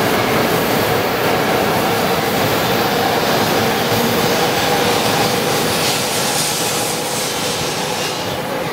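E5-series shinkansen train pulling out along the platform, out of service to the depot: a steady running noise of wheels and motors with a couple of steady tones, easing slightly near the end as the last cars go by.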